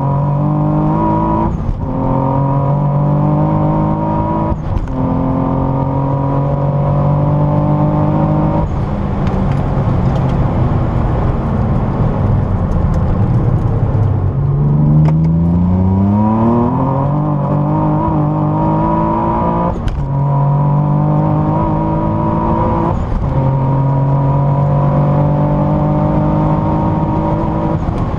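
Twin-turbo Nissan 350Z's 3.5-litre V6 heard from inside the cabin, pulling hard through the gears of its manual gearbox. The engine pitch climbs and breaks off at each upshift, several times. Midway the revs fall away, then sweep sharply back up before more upshifts.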